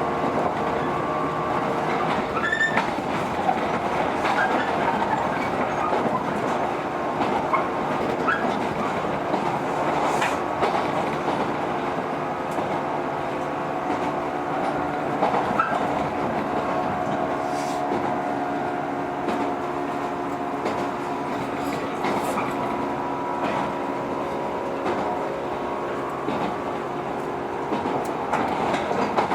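JR 115-series electric train running between stations, heard from inside the car: a steady hum of traction motors and gears over rail noise, with scattered clicks of the wheels over rail joints.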